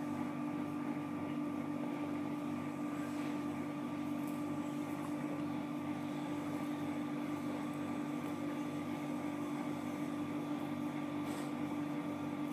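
A steady, low machine hum with a constant tone, unchanging throughout.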